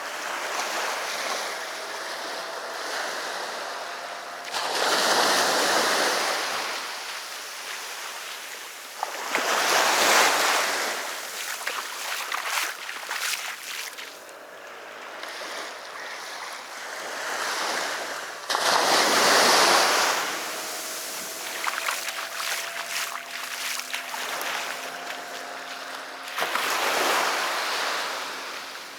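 Sea waves breaking on the shore four times, each one swelling into a loud rush and fading back into softer surf between.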